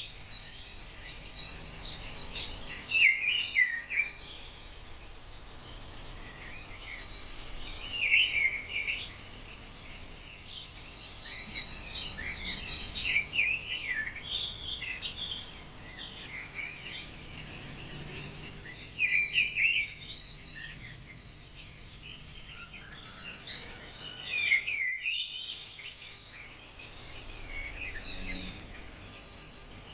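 Birds chirping and singing, with louder phrases of song every few seconds and many short chirps between them over a faint steady background hiss.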